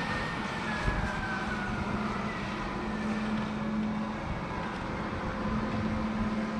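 The diesel engine of a 1987 Kalmar DC12-1200 12-tonne heavy forklift running steadily with a low hum. A whine above it falls in pitch between about one and two seconds in, and there is a single click about a second in.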